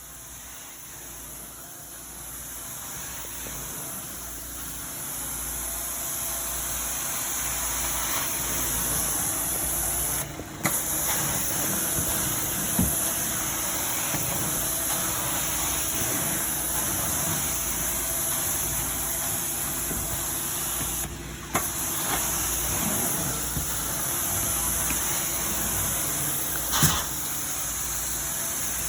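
Carpet-cleaning vacuum running with a steady, high-pitched airflow hiss. The hiss builds over the first several seconds and drops out briefly twice, with a few light clicks.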